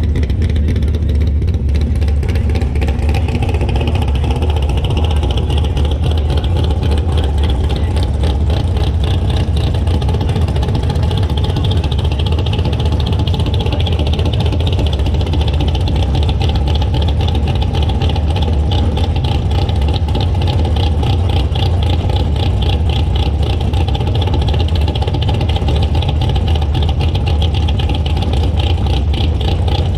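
Drag-racing Camaro's engine idling loud and steady, its rapid firing pulses heard close up.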